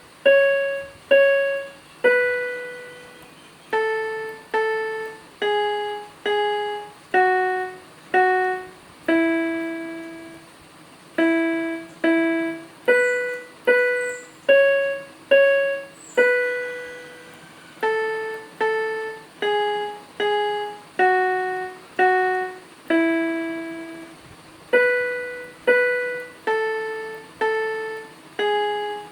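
Background music: a simple melody played one note at a time on a piano-like keyboard. Most notes are struck twice in quick succession and a longer held note closes each phrase every few seconds.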